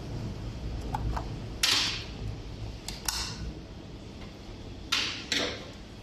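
Handling noises from work on a dishwasher door: about four short scrapes or clatters, with a couple of small clicks before the first.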